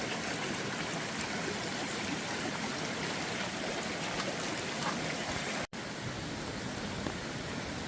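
Steady rush of flowing water, like a swollen stream or floodwater running, with a momentary dropout to silence about two-thirds of the way through.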